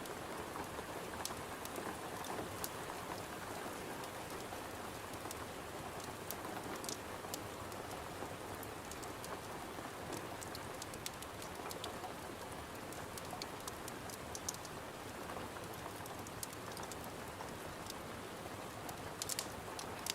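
Steady rain against a window with a crackling log fire: an even hiss with scattered sharp crackles and clicks.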